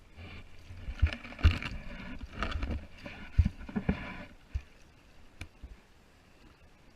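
Water splashing around a Hobie Tandem Island pedal kayak under way, with several sharp dull knocks over the first four and a half seconds before it settles to a faint background.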